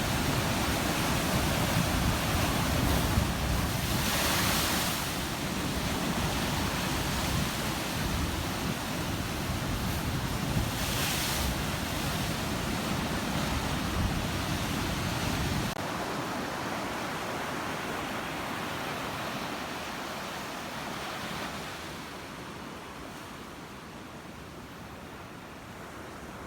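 Sea waves washing onto a beach, with wind buffeting the microphone. Louder washes of surf come about 4 and 11 seconds in. The low rumble falls away suddenly about two-thirds of the way through, and the sound grows quieter toward the end.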